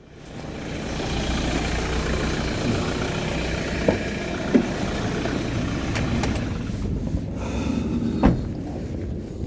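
Car running, a steady rumble of engine and road noise, with a few short knocks, about four and eight seconds in.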